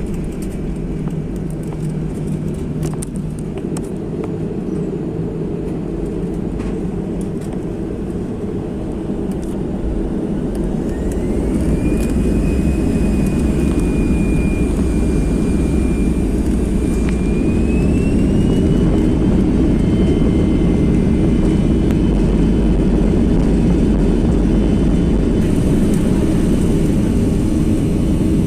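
Boeing 737 jet engines spooling up: a steady low rumble with a thin whine that starts climbing in pitch about ten seconds in, levels off, then climbs again a few seconds later as the engine noise grows louder and holds there.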